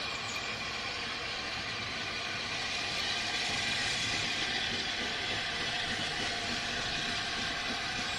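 A train running past on a heritage line: a steady, continuous noise that grows a little louder about three seconds in.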